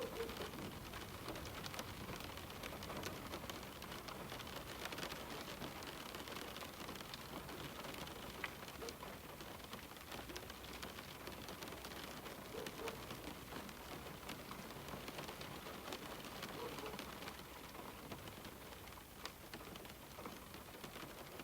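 Steady rain pattering on a window glass, a constant hiss with many small drop ticks. A pigeon coos softly a few times, around the start and again near the middle and toward the end.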